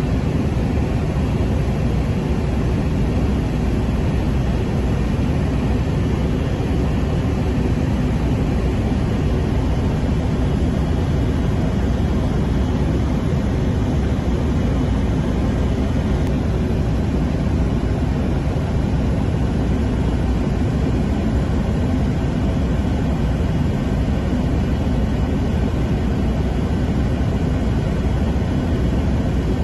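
Écureuil single-turbine helicopter in cruise flight, heard from inside the cabin: a steady, loud drone of turbine and rotor, heaviest in the low range, unchanging throughout.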